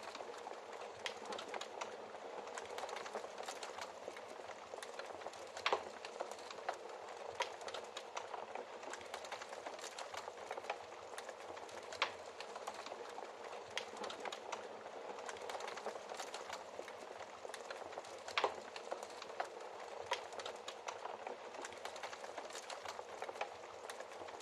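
Wood fire crackling in a fireplace: a dense run of small snaps over a soft hiss, with a few louder, sharper pops spread through.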